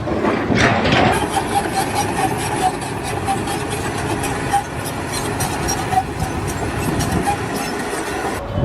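A machine engine running steadily, with clattering over it.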